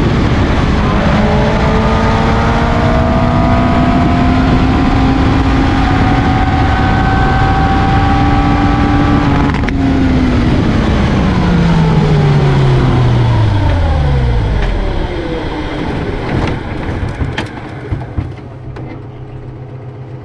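Reliant 750cc four-cylinder race engine running hard, its note rising slowly. About ten seconds in there is a sharp crack, and the engine note falls steadily in pitch and dies away as the car coasts, followed by rattles and knocks as it rolls to a stop. The engine has cut out because a pin came adrift and the distributor drive gears broke, so the distributor stopped turning.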